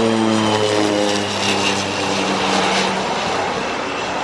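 A passing engine drones, its pitch falling slowly, and fades out about three seconds in, over a steady rushing noise.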